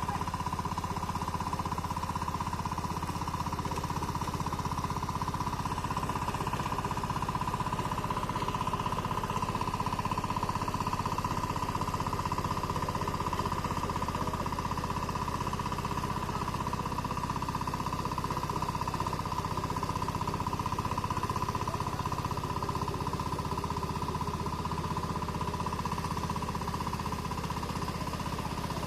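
Small tractor's engine running steadily with a fast, even chugging beat and a steady whine.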